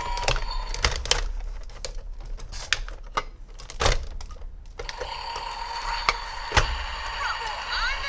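Hard plastic toy parts clicking and knocking as they are handled, in irregular light taps with a couple of louder knocks.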